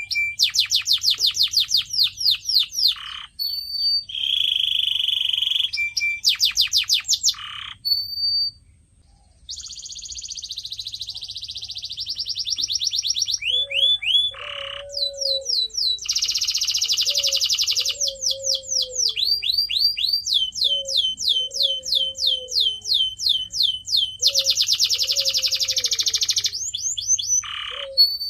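Canary singing a long song of fast trills: runs of quickly repeated sweeping notes alternating with steady buzzy rolls, broken by a brief pause about nine seconds in. From about halfway, a low drooping note repeats every second or two beneath the trills.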